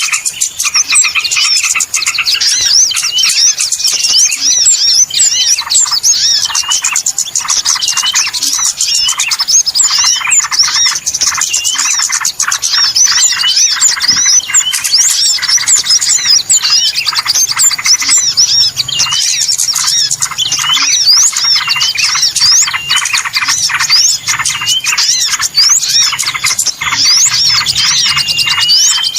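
Many small birds chirping and twittering at once, the dense, overlapping calls of a small-bird lure recording meant to draw songbirds in.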